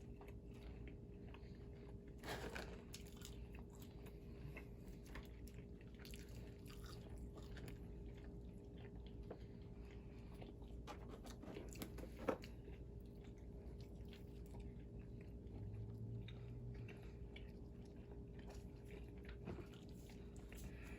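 Faint, close-up chewing and biting of fast food, with scattered small crunches and a sharper crunch about twelve seconds in, over a steady low hum.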